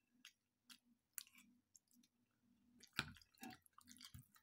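Faint close-up chewing of a mouthful of pasta and stir-fried cabbage, with small wet mouth clicks and a sharper click about three seconds in.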